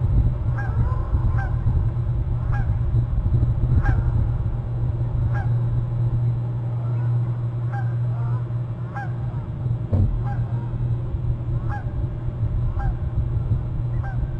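A bird calling over and over, short hooked notes about once a second, over a steady low hum.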